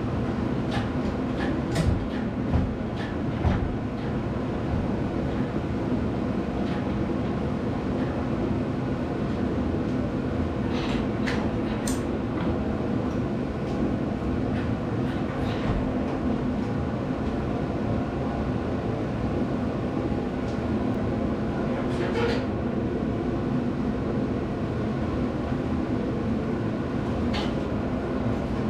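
A steady mechanical hum with a few scattered short clanks and clicks, the loudest a handful of knocks about two to four seconds in.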